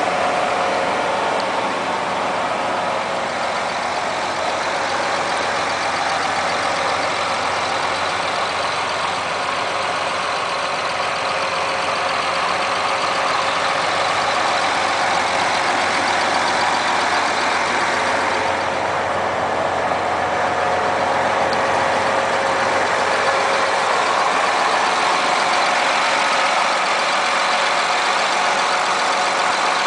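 John Deere 8235R tractor's six-cylinder diesel engine running steadily at idle.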